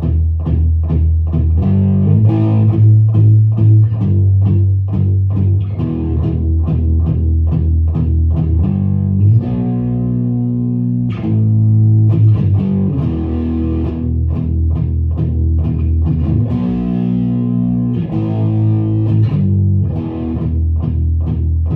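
Background music: a guitar played with rapid, evenly picked notes over held low notes that change every second or two.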